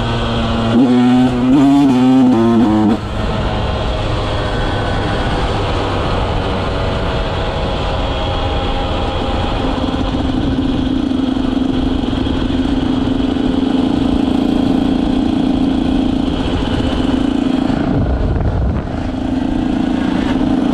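KTM 125 SX two-stroke single with an FMF exhaust, revved up and down hard in quick blips for the first three seconds. It then runs at a steadier speed, with a brief drop in revs near the end before it picks up again.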